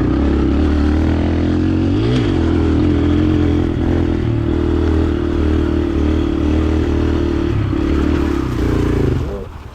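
125cc four-stroke dirt bike engine running steadily under throttle, with a brief rise and fall in revs about two seconds in. Near the end the engine sound drops away suddenly.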